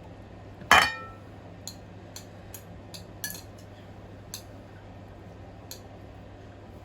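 Eating utensils knocking against a bowl: one sharp, ringing clink a little under a second in, then a scattering of lighter clicks and taps.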